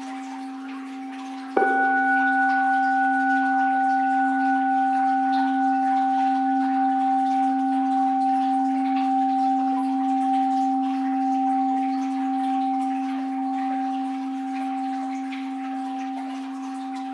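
An orin, a Japanese Buddhist bowl bell, struck once about one and a half seconds in, over the fading tone of an earlier strike. It rings on with a slightly wavering hum and slowly dies away.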